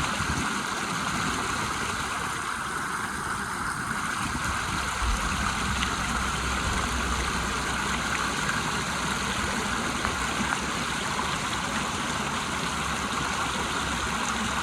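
River water rushing over a waterfall: a steady, unbroken roar of flowing water.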